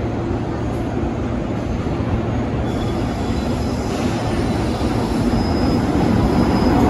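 EF64 electric locomotive hauling a container freight train approaching, the steady rumble of wheels on rails growing gradually louder as it nears.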